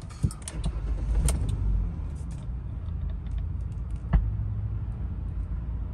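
A 2002 Ford Explorer engine starting from stone cold, heard from the driver's seat. There is a click at the key, about a second of cranking as it catches, and then a steady cold idle. A sharp click comes about four seconds in.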